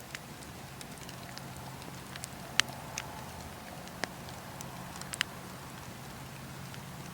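Campfire crackling: a steady low rush of burning wood with scattered sharp pops, the loudest about two and a half seconds in and a close pair just after five seconds.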